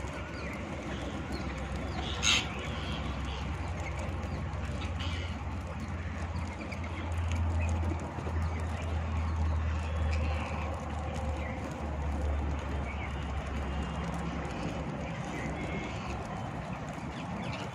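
Parrots calling, with one short, sharp squawk about two seconds in, over a steady low hum.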